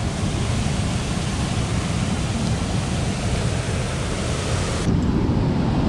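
Steady rush of a mountain stream's cascading water. About five seconds in it turns abruptly duller and a little louder.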